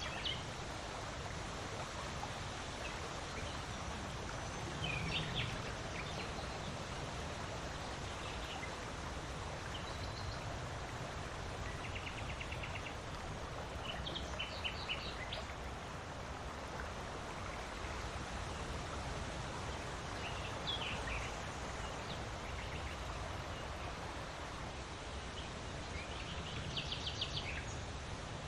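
Steady wind noise with short bird calls now and then, some of them quick trills.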